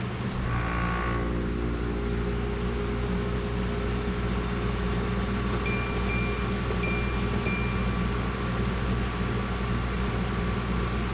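An 8,000 BTU portable air conditioner runs with a steady hum and fan rush. There is a short electronic chime about half a second in, then three short high beeps around the middle.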